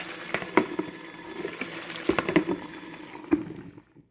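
Krneaoch 6 L mini folding washing machine running its wash cycle: a steady motor hum with water churning and sloshing inside the tub, broken by a few sharp splashes. The sound drops away near the end.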